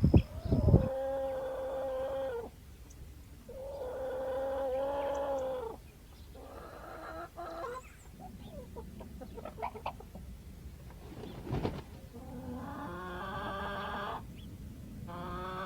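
Chickens calling: several drawn-out calls of about one to two seconds each, with short clucks and scratchy sounds between them.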